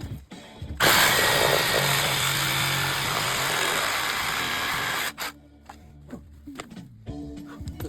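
A power tool runs steadily for about four seconds, starting about a second in and cutting off sharply, followed by scattered light knocks and clicks.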